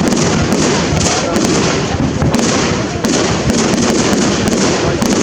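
Fireworks display going off in a continuous barrage: dense overlapping bangs and crackling many times a second, with no break.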